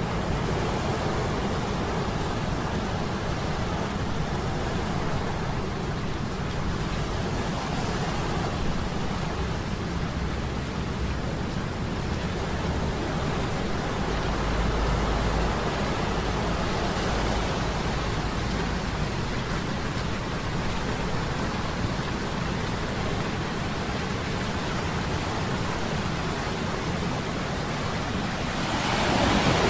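Sea storm sound effect, a steady rushing wash of waves, layered over a low hum of metal gears. The wash swells louder near the end.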